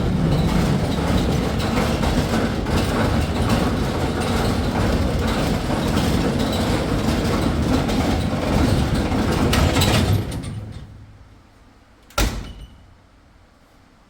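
Whirlpool 15 kg vented dryer running with a huge, abnormal noise from the drum, the sign of a defective drum roller, then winding down and going quiet about ten seconds in. A single sharp knock follows about two seconds later.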